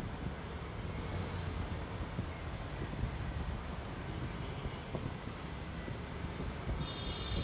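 Honda ADV 150 scooter's 150 cc single-cylinder engine running while riding, with road and wind noise rumbling on the microphone. A faint thin high whine comes in about halfway through and briefly near the end.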